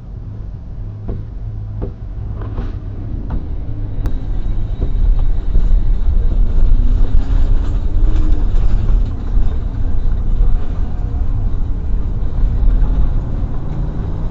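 Vehicle driving noise heard from inside the cab: a heavy engine and road rumble that builds over the first few seconds, then holds steady.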